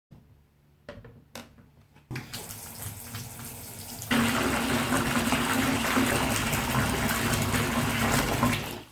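Water running from a tap into a bath, a steady rush that gets louder about four seconds in and stops just before the end, after a couple of small knocks.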